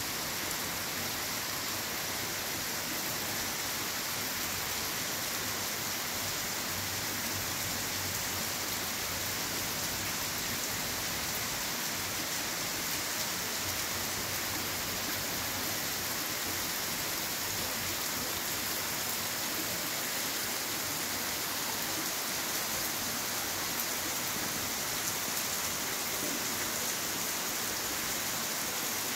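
Heavy rain falling steadily on a paved street, an even hiss.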